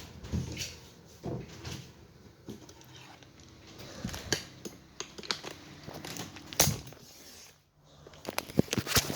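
Irregular clicks, knocks and rustling of something being handled, with a louder cluster of clicks near the end.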